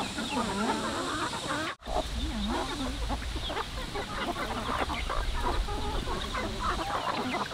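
Chickens clucking, several birds calling over one another, with a low rumble underneath. The sound cuts out for an instant about two seconds in.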